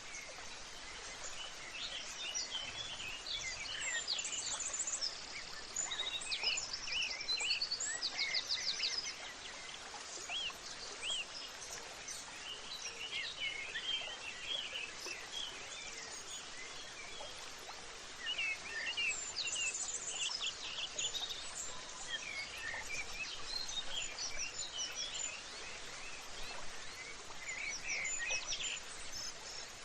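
Several birds chirping and trilling over a steady background hiss of outdoor ambience, with rapid trills now and then.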